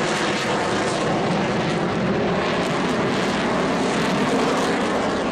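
Blue Angels F/A-18 Hornet jets in flight, giving a loud, steady jet noise with no clear rise or fall.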